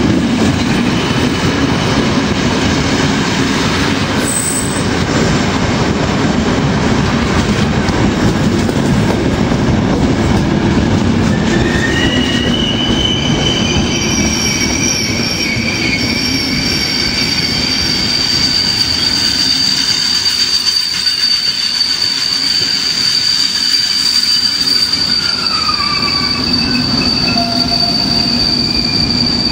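Passenger train coaches rolling along the platform, their wheels clattering on the rails. About twelve seconds in, high-pitched squealing from the wheels sets in and holds, with one squeal sliding down in pitch near the end.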